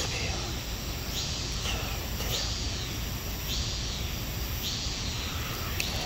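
A bird calling four times, a short high note that rises and falls, a little over a second apart, over a steady background hiss.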